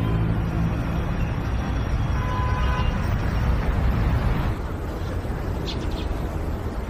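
Busy street ambience: steady traffic noise, with a faint brief tone partway through.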